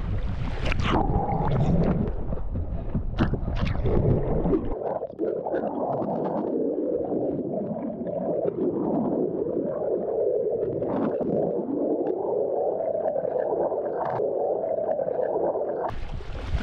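Muffled, gurgling water with a few sharp clicks; for the first few seconds it is fuller and deeper, then it turns narrow and wavering.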